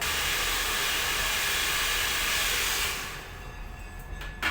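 Handheld hair dryer blowing with a steady hiss of air, then cutting off about three seconds in. A short click comes near the end.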